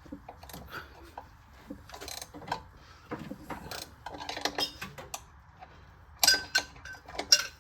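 Hand tools and loose metal parts clicking and clinking during work on the starter, with a quick run of sharp, ringing metal clinks near the end.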